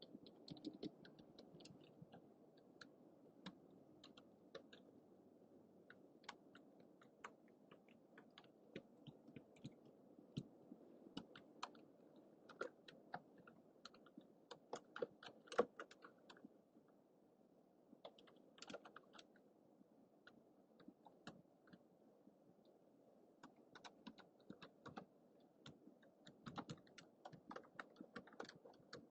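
Typing on a computer keyboard: soft, irregular key clicks, thinning out to a few keystrokes for several seconds in the middle, over a faint steady hiss from a low-budget microphone.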